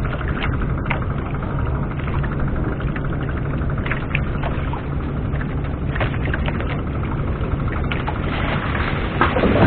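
A small fishing boat's engine running steadily at low speed, a low hum with a fast, even rattle over it, and a few short knocks and a brief noisy rush near the end.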